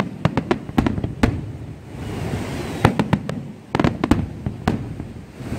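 Aerial firework shells bursting: a rapid series of sharp bangs that come in clusters, several in quick succession about a second in and again around three to four seconds in.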